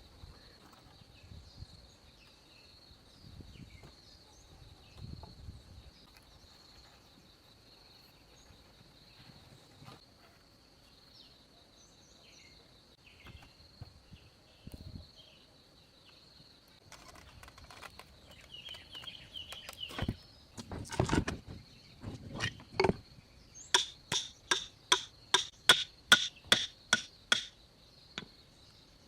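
Insects drone steadily at a high pitch. About two-thirds of the way in come a few heavy knocks on wood, then a quick run of about a dozen sharp, ringing hammer blows, roughly three a second.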